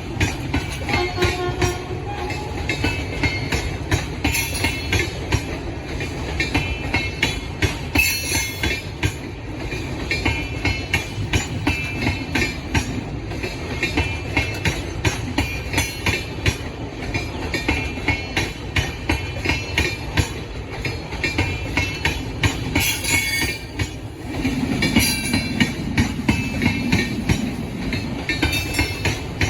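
Rajdhani Express passenger coaches rolling out of the station, wheels clattering over rail joints in rapid irregular clicks over a steady rumble.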